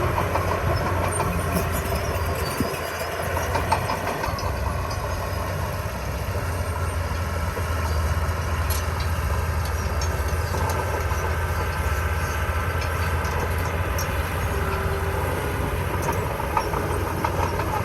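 Komatsu D20P crawler bulldozer's diesel engine running steadily, with clanking from its steel tracks.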